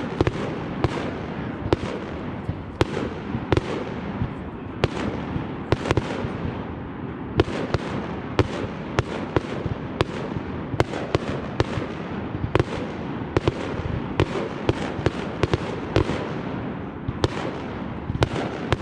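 Fireworks display: aerial shells bursting in rapid, irregular succession, several bangs a second, over continuous crackling.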